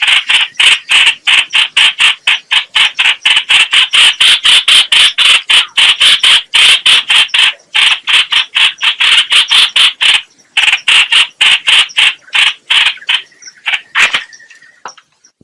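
Bird-call recording of the trao trảo (chao chảo), used as a trapping lure: a fast run of harsh chattering notes, about five a second. The run breaks off briefly twice and stops near the end, followed by a few scattered notes and a short thin whistle.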